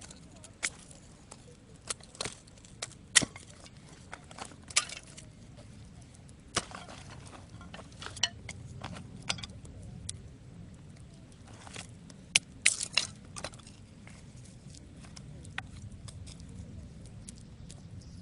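Small wood fire crackling in a B6 folding stove: sharp, irregular snaps and pops, a few a second and uneven in loudness, over a faint low hiss.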